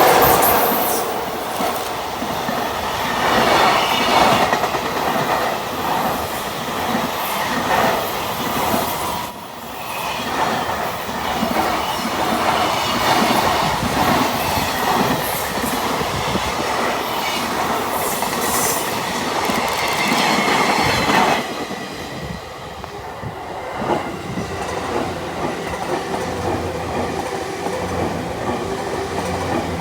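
Freight train hauled by an EF66 electric locomotive passing close by: a loud steady rush of wheels on rail with clickety-clack over rail joints and some wheel squeal. About two-thirds of the way through, the sound drops suddenly and a quieter rumble goes on.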